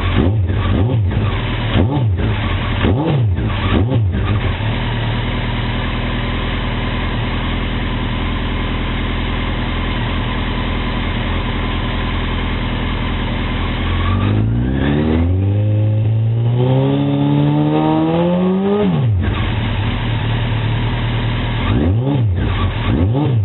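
Honda 919 inline-four motorcycle engine breathing through a 900RR exhaust and Scorpion Street Extreme muffler, blipped a few times in quick succession, then settling to a steady idle. About fourteen seconds in it revs up in one long climb and drops straight back to idle, followed by two more short blips near the end.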